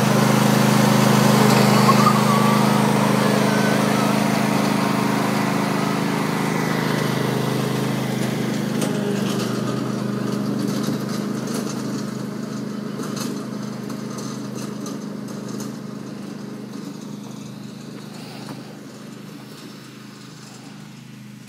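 Small tractor's engine running at a steady pitch, fading gradually as the tractor drives away.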